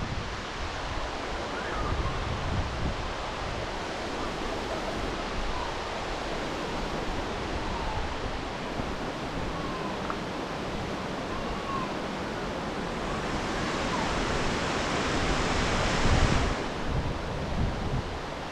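Steady rush of the Forest Falls waterfall and cascades, with wind buffeting the microphone in low rumbles. The rush swells louder near the end and then drops back suddenly.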